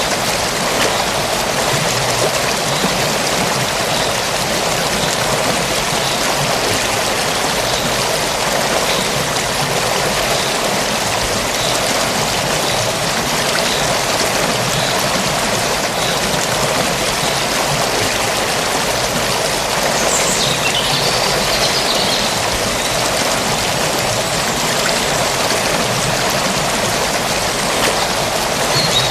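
Forest stream flowing steadily: an even, unbroken rush of water, with a few faint high chirps about two-thirds of the way through.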